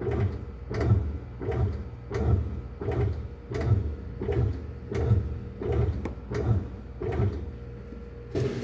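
New Panasonic washing machine agitating on its first wash, with a knocking rumble about every three-quarters of a second as the wash action swings back and forth. The owner takes this noise for a factory defect. Near the end the strokes stop and a steady hum takes over.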